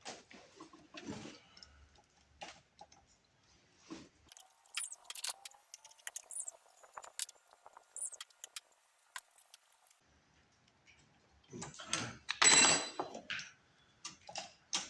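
Metal hand tools clinking and rattling while someone rummages for a screwdriver, in scattered small clicks, with a louder rattling clatter near the end.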